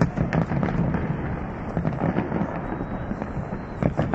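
Large fireworks display with many shells bursting in quick succession: sharp bangs and crackling over a continuous rumble of explosions, with loud bangs at the start and near the end.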